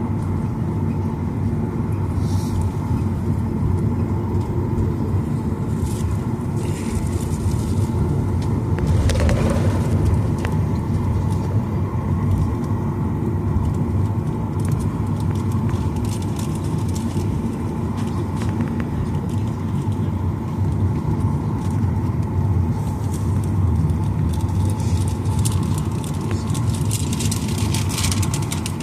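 Steady cabin noise inside a Boeing 737-900ER: a low rumble from its CFM56 jet engines and the airframe, with a steady hum near the middle of the range. A few faint clicks and rattles sound over it about a third of the way in and near the end.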